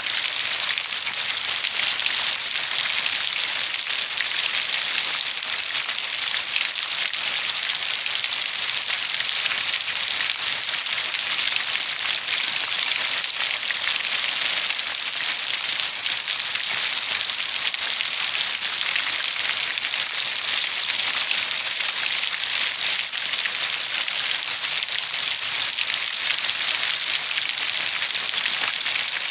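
Steady rain falling on a surface, a dense even hiss of many fine drops.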